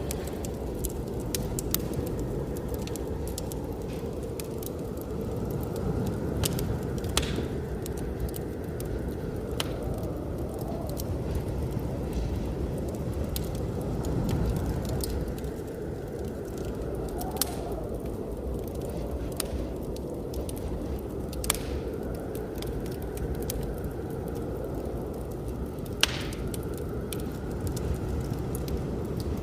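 Wood fire crackling, with scattered small clicks and a few sharper pops, over a steady low rush of blizzard wind.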